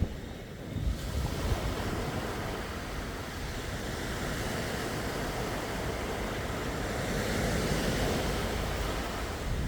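Sea waves washing onto the shore: a continuous surf hiss that swells about a second in and builds slowly, easing just before the end.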